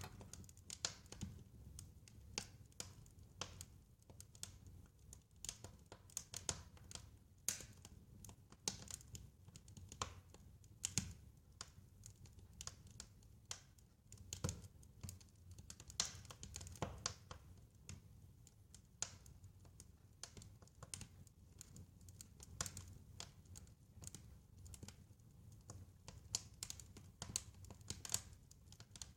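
Wood fire crackling: irregular snaps and pops, several a second, over a soft low rumble of the burning fire.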